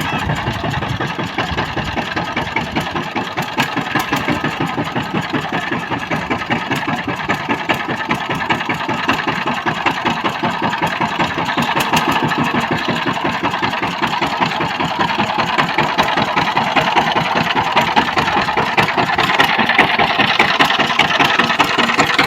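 Power tiller's single-cylinder diesel engine running with a rapid, even firing beat, getting somewhat louder over the last few seconds.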